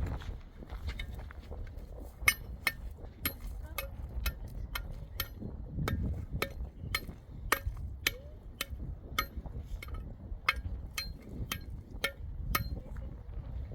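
A metal tool tapping a hard surface: sharp, slightly ringing strikes, irregular at first, then settling into a steady rhythm of about two a second.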